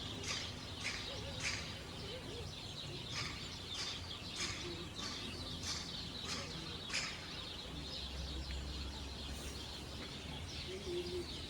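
Birds calling: a bird gives a string of short, sharp chirps that sweep down in pitch, about two a second, then fall off after about seven seconds. A steady low rumble of background noise runs underneath.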